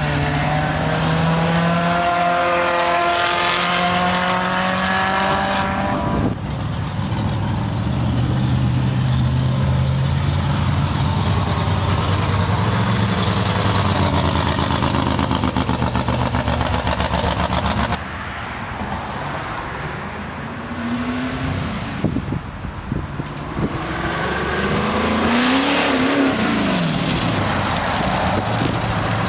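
Car engines running and revving, the pitch shifting up and down, with a quick rev that rises and falls near the end.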